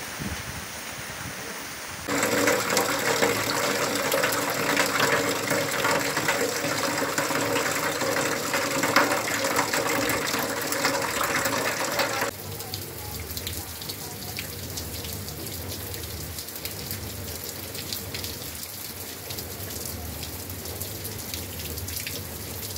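Heavy rainfall. About two seconds in, a much louder stream of rainwater pours off a roof edge and splashes. It cuts off suddenly about twelve seconds in to a softer, steady rain.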